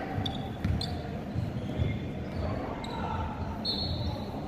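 Basketball dribbled on a hardwood court, thumping at an uneven pace, with sneakers squeaking against the floor several times, the last squeak the longest, in an echoing gym.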